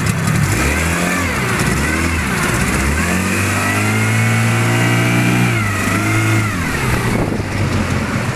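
Zongshen T30 30 hp outboard motor revving up under way, holding high revs for a couple of seconds, then throttled back down near the end.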